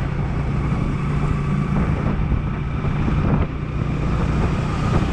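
Hero Glamour 125 cc single-cylinder motorcycle engine running steadily at riding speed, with wind noise on the microphone.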